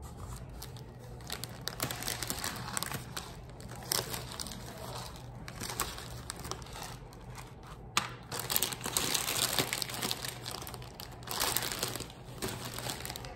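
Puffed rice being poured and scooped into paper cups: a continuous crinkling rustle of light dry grains, busiest about eight and again about eleven seconds in.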